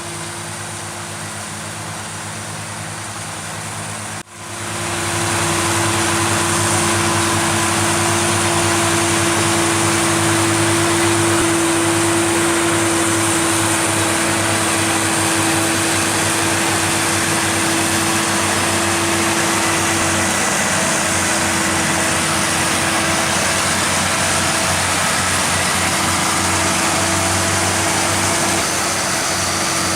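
A heavy machine's engine running steadily, with a constant drone. About four seconds in the sound cuts out for an instant and comes back louder.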